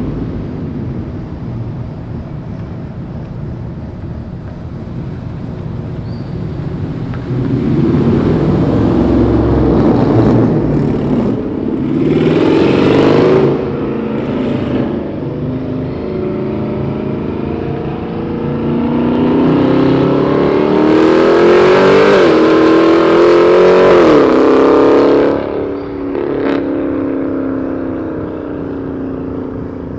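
Loud exhaust of modified cars accelerating. The engine note climbs once, then climbs again for several seconds with two quick dips in pitch like upshifts, and falls away suddenly near the end.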